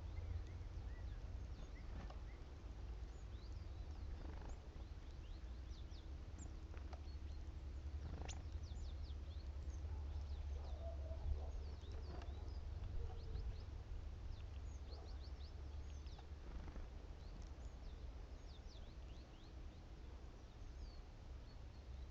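Great tits calling in short, thin, high notes, many scattered calls throughout, over a steady low rumble.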